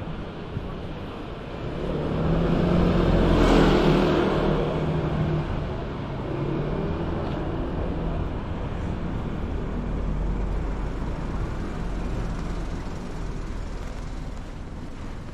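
Street traffic: a motor vehicle passes close by, its engine and tyre noise swelling to a peak about three to four seconds in and then fading into a steady low traffic rumble.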